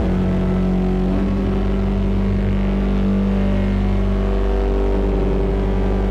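Eurorack modular synthesizer drone, distorted through a Lyra-8 FX and echoed by a Mimeophon delay: a sustained, droning chord of steady tones over a deep bass, shifting to a new note about a second in.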